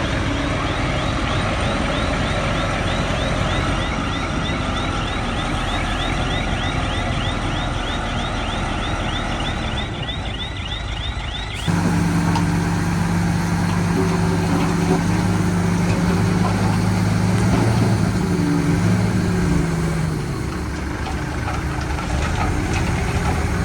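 Heavy diesel earthmoving machinery running, with a fast repeating high squeak, about three a second, over the engine noise. About halfway through an abrupt cut gives way to a deep, steady diesel engine drone that shifts slightly in pitch as the load changes.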